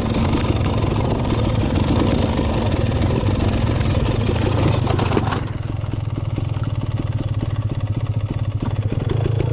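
Two-stroke dirt bike engine running, louder at first, then dropping about five seconds in to a lower, evenly pulsing run.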